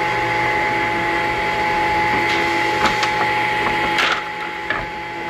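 Woodworking machinery running with a steady hum and whine, with a few sharp knocks and clatters about three to four seconds in. It runs a little quieter near the end.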